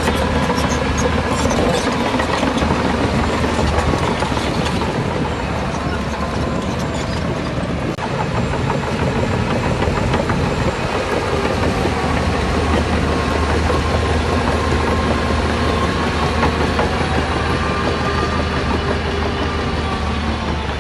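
Diesel engines of heavy earthmoving machinery running steadily under work, with a deep low drone and mechanical clatter.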